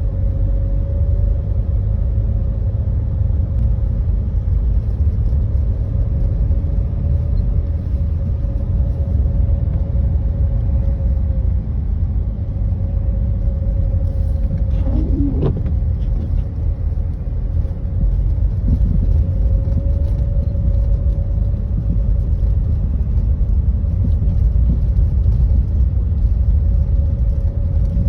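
A motor vehicle driving with a steady low rumble and a faint steady hum. A short sound that rises and falls in pitch stands out about halfway through.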